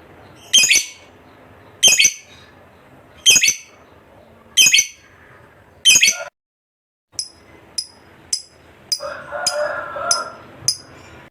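A lovebird giving short, shrill calls, five of them evenly spaced about a second and a quarter apart. After a short break about six seconds in, quicker, thinner chirps come about twice a second.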